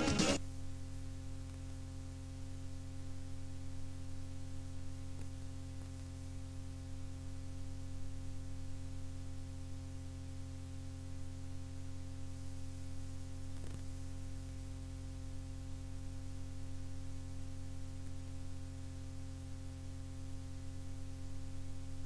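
Music cuts off just at the start, leaving a steady electrical mains hum with a low hiss. A faint tick comes about two-thirds of the way through.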